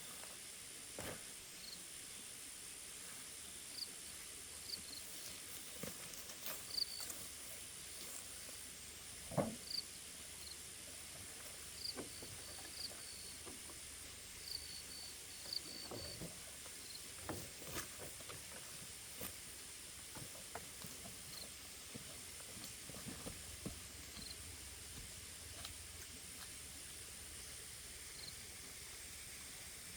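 Forest ambience: a steady high-pitched hiss of insects, with short high chirps scattered through it and occasional light rustles and knocks, the loudest about nine seconds in.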